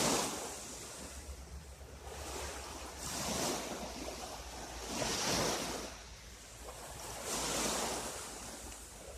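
Small sea waves washing in, four swells each rising and falling away, with a low wind rumble on the microphone.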